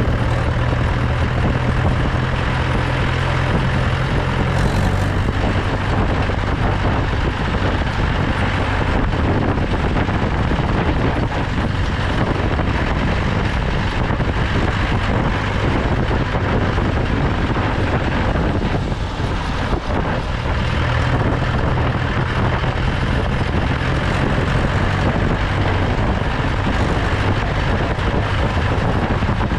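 Mahindra 475 DI tractor's 2730 cc four-cylinder diesel engine running under way, with road and wind noise. The engine note changes about five seconds in and shifts back near the twenty-one-second mark.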